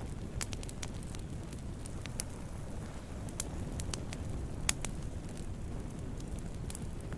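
Wood campfire burning: a steady low rumble of flames with scattered sharp crackles and pops, the loudest pop a little before halfway.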